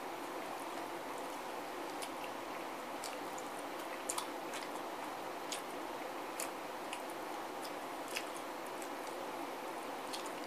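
A person chewing and biting into chicken wings: scattered wet mouth smacks and short clicks, the loudest a pair about four seconds in, over a steady background hiss.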